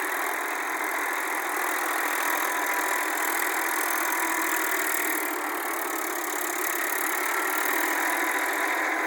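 Massey Ferguson 241 tractor's diesel engine running steadily while driving a rotavator through the soil.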